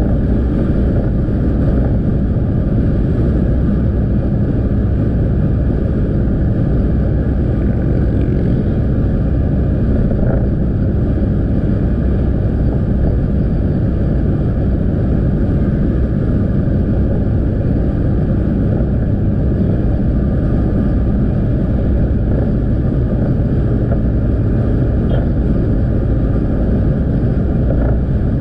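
Motorcycle engine running steadily at cruising speed, with wind rushing over the microphone and road noise. The sound holds even throughout, with no revving up or slowing.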